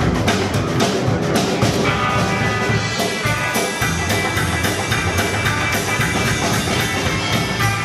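Live rock band playing an instrumental passage between sung lines, with a drum kit keeping the beat and a guitar; from about two seconds in, held guitar-like notes ring over the rhythm.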